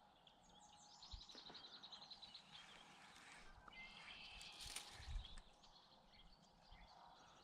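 Quiet outdoor ambience with a faint small bird's rapid trill for the first couple of seconds and another short call a little later, plus a faint click near the middle.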